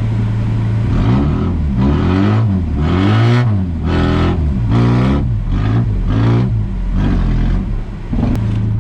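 Rally car engine idling, then revved up and down about seven times in quick succession before it drops back to a steady idle near the end.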